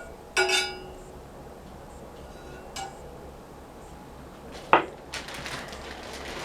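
Cookware and utensils being handled: a ringing metallic clink about half a second in, a light click, then a sharp louder knock near the end followed by rustling and scraping.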